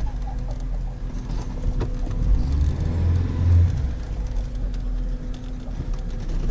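Off-road 4x4's engine running with a steady low rumble, which swells for about a second starting two and a half seconds in. There is one short knock just before.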